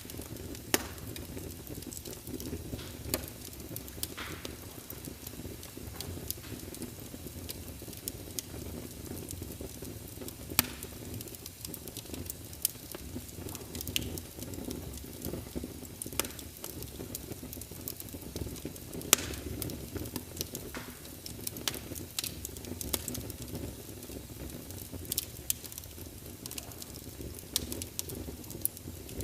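Wood fire burning in a fireplace: a steady low rumble of flames with constant crackling of burning logs and scattered sharp pops, a few louder ones standing out.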